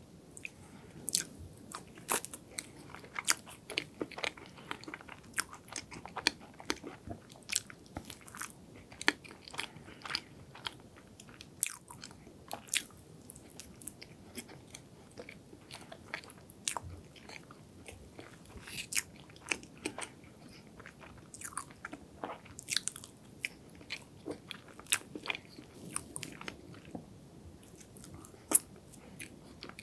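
Close-miked chewing of hazelnut chocolate cake, with many small, irregular crisp crunches from the chopped-hazelnut chocolate coating among softer wet mouth sounds.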